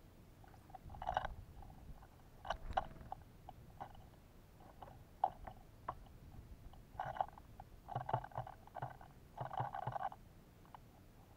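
Birds feeding at a bird feeder, pecking and scrabbling on it: irregular clusters of quick taps and scrapes, the loudest about a second in and around seven to ten seconds in.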